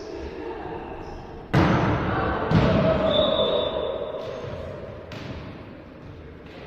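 A volleyball struck hard twice, about a second apart, the hits echoing around a sports hall, with players' voices and a brief high-pitched tone just after the second hit, then a few fainter knocks.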